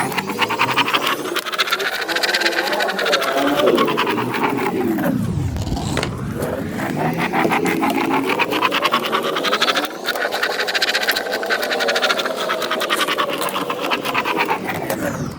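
Spirograph gear wheel running around its toothed ring with a pen drawing on paper: a rapid run of fine clicks from the teeth and a pen squeak whose pitch rises and falls in long sweeps. The sound dips briefly about 6 s and 10 s in.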